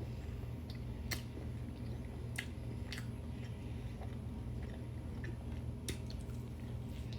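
Close-up mouth sounds of someone eating barbecue ribs: chewing with a few short wet clicks and smacks, over a steady low hum.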